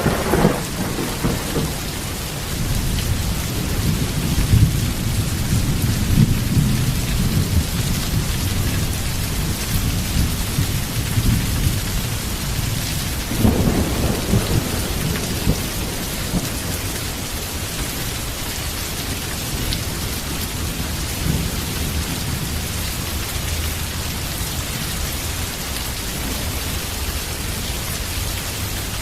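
Heavy rain falling steadily with thunder. A clap just before the start rolls on into a long low rumble, and a second clap about halfway through is followed by more rumbling.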